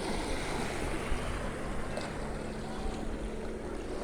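Calm sea water lapping gently, with wind rumbling on the microphone and a faint steady hum in the background.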